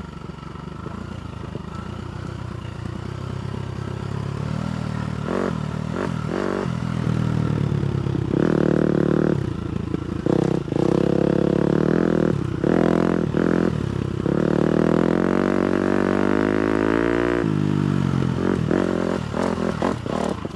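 A 250cc four-stroke motocross bike engine being ridden hard. It builds up over the first few seconds, then revs up and drops back several times with short breaks in the throttle. Near the end it makes one long rise in pitch and then cuts off suddenly.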